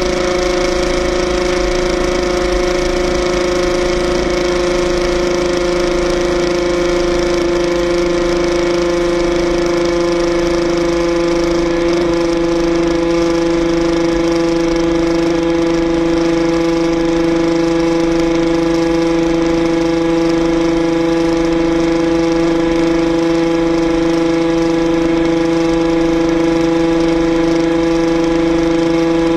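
Yamaha RXZ's single-cylinder two-stroke engine held at high revs while the bike cruises flat out on the highway: a loud, steady, high-pitched whine that barely changes pitch.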